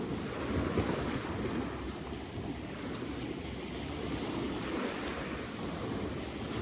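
Steady rushing of wind and water at a lakeshore, with wind buffeting the microphone; the level rises and falls a little but nothing stands out.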